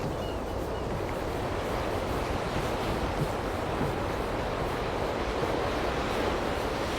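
Steady rushing of sea waves and wind.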